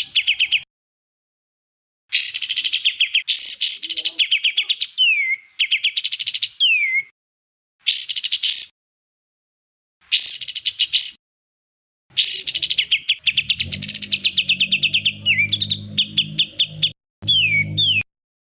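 Songbird song made of rapid-fire trills and fast falling whistled notes, the 'tembakan' bursts used in masteran training recordings. It comes in bursts of one to three seconds, cut apart by abrupt dead silences. A low hum runs under the last six seconds.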